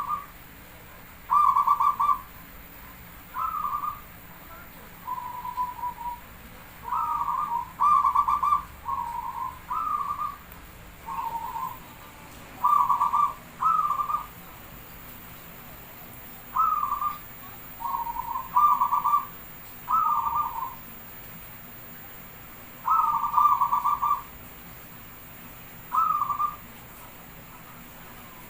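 Zebra dove (perkutut) cooing: a long run of short, warbling coo notes, some single and some in quick pairs or triplets, with short pauses between groups.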